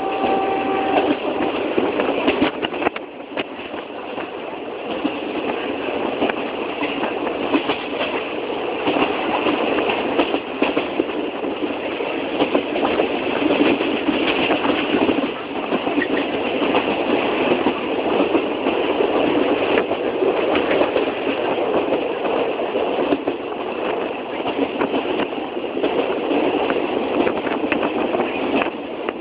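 Passenger train running along the track, a continuous dense rattling and clattering of wheels and carriages.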